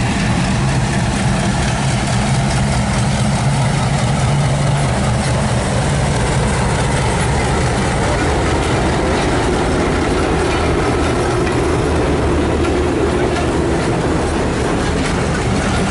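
Diesel locomotive's engine running as it passes hauling passenger coaches, followed by the coaches rolling by with their wheels clicking over the rail joints.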